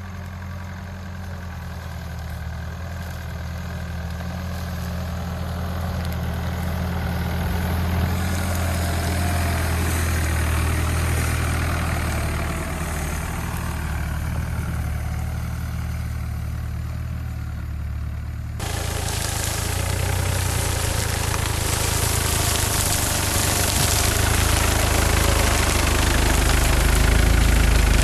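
Mitsubishi Pajero SUV engine running slowly under load as it drives through soft boggy ground, growing gradually louder as it comes closer. About two-thirds of the way through the sound changes abruptly to a louder, rougher engine noise that keeps building.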